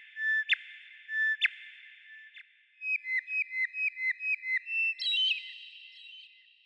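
Whistled bird song: three clear notes about a second apart, then a quick run of about eight notes, ending on a higher note.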